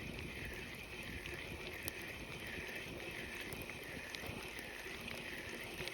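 A pulsing insect chorus, a high buzzing that swells and fades about one and a half times a second, over a low rumble.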